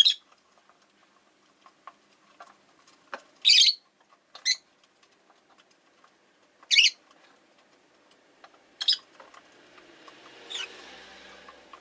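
Rosy-faced lovebirds giving short, sharp, high-pitched chirps, about six calls spaced a second or more apart, with faint clicks and taps in between. Near the end a faint rushing noise swells and fades under the calls.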